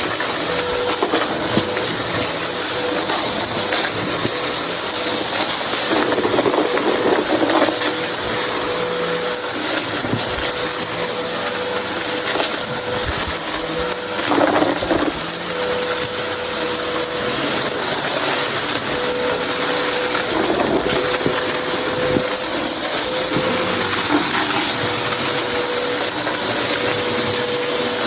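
Vacuum cleaner running with a steady motor whine while picking up a crunchy mess, the dry debris crackling and rattling as it is sucked in.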